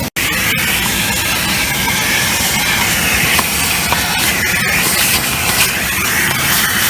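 Car wash water spray hitting a car in a steady, loud hiss.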